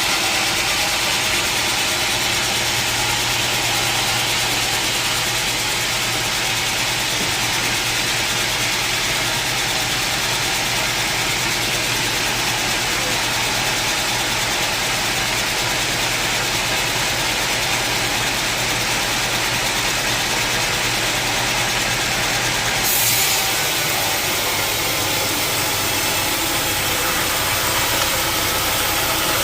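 Sawmill saw running steadily, a loud continuous machine noise. About 23 seconds in the sound shifts as a low steady hum stops and the highest hiss fades away.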